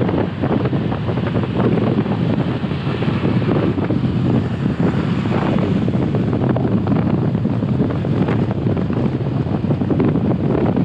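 Wind buffeting the microphone of a helmet-mounted GoPro on a moving motorcycle: a loud, steady rush of wind noise.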